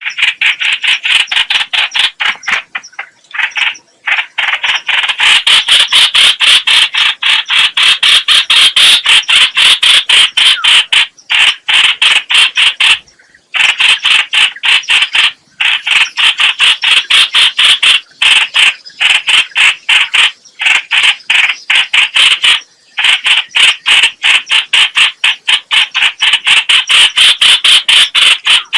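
Call of the bird known in Vietnam as trao trảo (chao chảo, hoành hoạch), a loud, fast, continuous chatter of closely packed notes broken by a few short pauses. It is a decoy call recording used to lure the same species.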